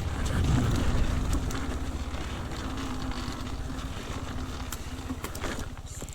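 Dirt bike engine running at low revs, louder for the first second or so and then settling to a steady lower putter, with wind noise on the microphone.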